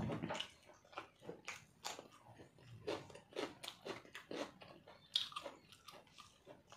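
Close-miked chewing and mouth sounds of a person eating rice and chicken curry by hand: irregular wet smacks and small clicks, several a second, with one sharper click about five seconds in.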